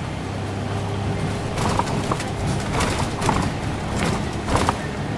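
Inside a Scania OmniLink CL94UB city bus on the move: the engine runs with a steady low hum, and from about one and a half seconds in an irregular series of sharp clicks, knocks and short squeaks sounds, the cabin rattling over an uneven road.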